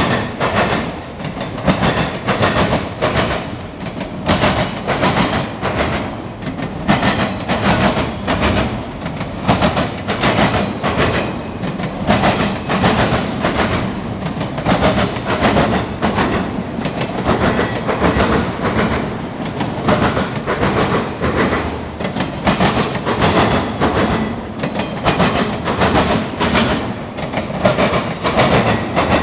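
Norfolk Southern autorack freight cars rolling past, their steel wheels clicking over the rail joints in a steady rhythm of about two clicks a second, over a continuous rumble of wheels on rail.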